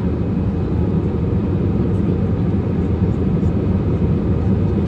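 Steady low drone inside a passenger airliner's cabin: engine and air noise.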